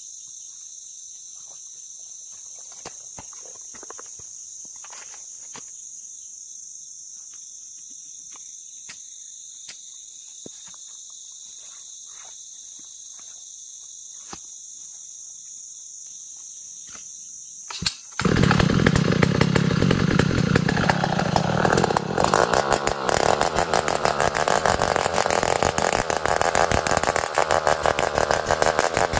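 Steady high-pitched insect chorus with a few faint ticks, then about eighteen seconds in a chainsaw starts abruptly and runs loudly, its engine speed rising and falling.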